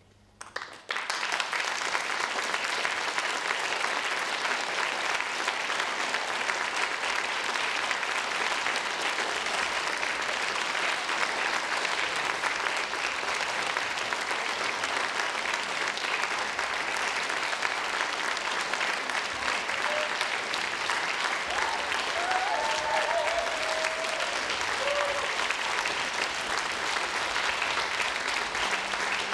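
Audience applauding, breaking out suddenly after a moment of silence and continuing steadily.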